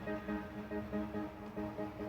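Music with held notes and a steady pulse, played through a JVC KD-S611 car radio.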